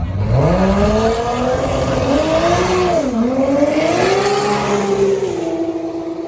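Drag race car accelerating down the strip, its engine note climbing in pitch, dropping sharply at a gear change about three seconds in, then climbing again and levelling off as it fades away.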